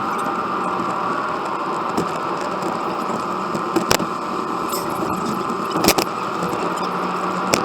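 Steady road and engine noise inside a moving car, with a few sharp clicks and rattles.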